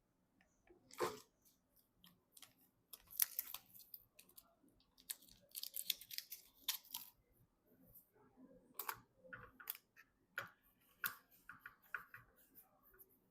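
Faint, scattered clicks, taps and brief rustling of PC components and packaging being handled and fitted together by hand.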